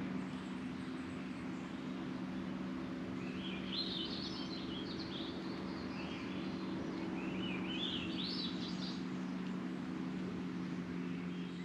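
A small bird chirping in two short bursts of rapid high calls, over a steady low hum.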